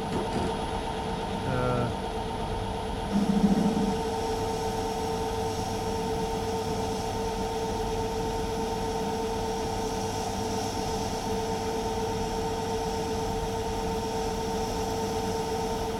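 Myford metal lathe running steadily with a constant hum while roughing out a steel bearing housing with heavy cuts. A higher, hissier cutting noise joins about three seconds in and holds steady.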